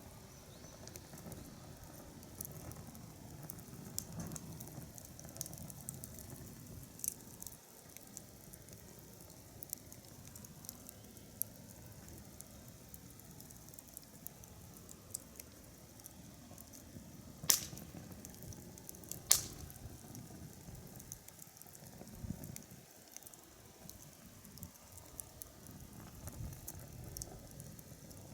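Wood fire crackling, with scattered small pops and two louder pops a couple of seconds apart past the middle.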